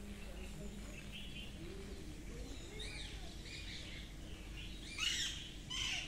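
Birds chirping in short, high calls, a few around three seconds in and the loudest about five seconds in, over a steady low background rumble.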